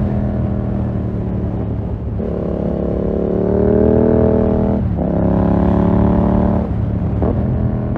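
Yamaha MT-07's parallel-twin engine through a full SC-Project 2-1 exhaust, pulling hard under acceleration with the pitch rising through the gear. Quick gear changes about five seconds in and again near the end break the pull before it climbs again.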